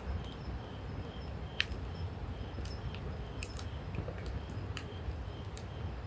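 Wood campfire burning, crackling with sharp scattered pops, the loudest about one and a half seconds in, over a low steady rumble.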